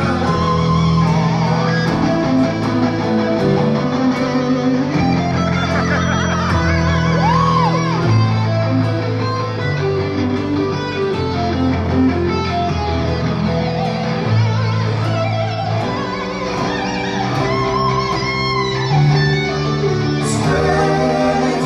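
Hard rock band playing live, an instrumental passage led by electric guitar over bass, with bent guitar notes, recorded from the crowd on a phone.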